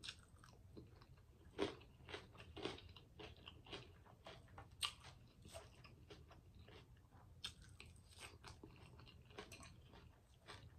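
Faint, close-miked chewing and biting of shrimp and salad: irregular small crunches and wet mouth clicks.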